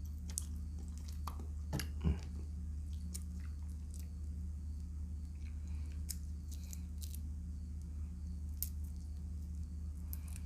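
Close-miked chewing and wet mouth sounds of someone eating shrimp in a sour broth with rice, with scattered short smacks and clicks over a steady low hum.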